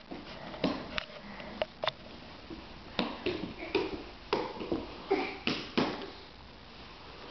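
A pet animal making a dozen or so short, scattered noises at irregular intervals, more densely in the second half.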